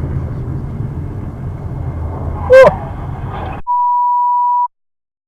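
Car interior road and engine noise, with a short loud horn toot about two and a half seconds in. The sound then cuts off abruptly into a steady pure beep tone lasting about a second, followed by silence.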